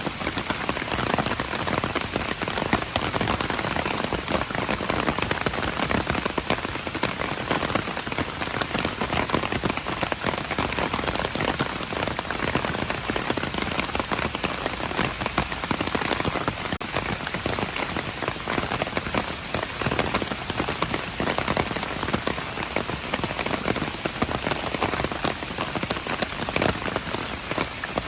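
Steady heavy rain falling on hard surfaces, a dense patter of many drops with no let-up.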